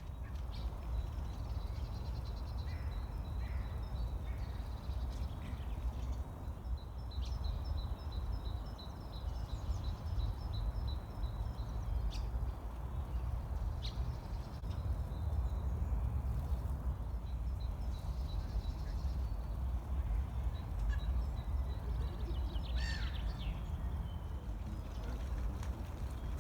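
Small birds chirping and giving rapid high trills over a steady low rumble of wind on the microphone, with one louder, harsher bird call near the end.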